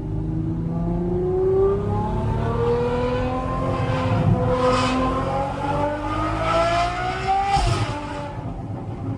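Straight-piped Ferrari V12 accelerating hard, its pitch climbing steadily for several seconds. Near the end a thump and a sudden drop in pitch mark a gear change, and it carries on lower.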